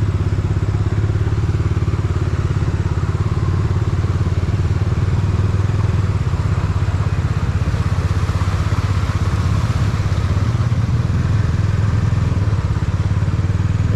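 A motorcycle engine running steadily close by, a fast low pulsing, over the noise of road traffic.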